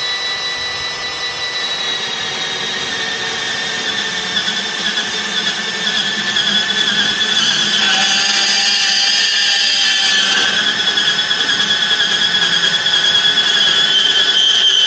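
Makita 18-volt cordless band saw running and cutting through a metal square tube: a steady high whine that grows louder and rougher as the blade works through the cut.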